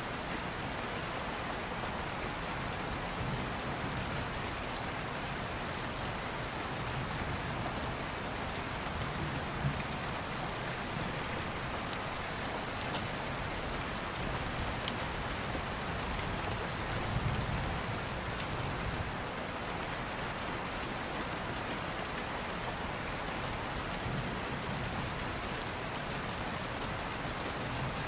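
Steady rain, with a few low rumbles of thunder swelling and fading about a third and two thirds of the way through, and a few sharp crackles from an open fire.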